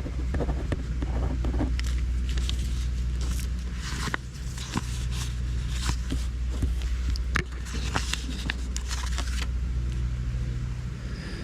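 Paper stickers being peeled from a sticker sheet and pressed onto an index card: a run of small crackles, scrapes and clicks. A steady low hum runs underneath.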